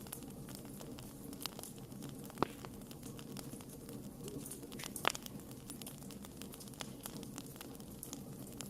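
Wood campfire burning and crackling: a steady low rush of flame with many small snaps, and two sharper pops about two and a half and five seconds in.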